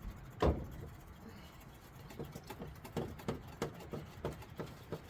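A single sharp knock, then a run of light, uneven taps and clicks, about two or three a second, with no engine running.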